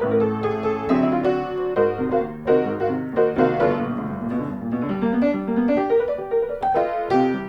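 Background piano music: a lively melody of quick struck notes.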